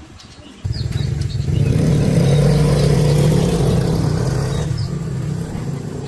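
A loud motor-driven machine starts abruptly about half a second in and runs with a steady hum and hiss, swelling a second later and easing off near the end.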